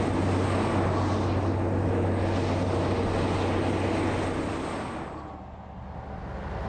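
Heavy road-train truck driving past: a steady low engine hum with tyre and road noise, fading away about five seconds in.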